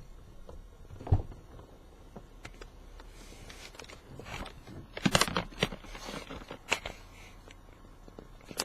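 Scattered knocks, clicks and rustling of gear being handled, with a heavier thump about a second in and a cluster of sharp clicks around five seconds in.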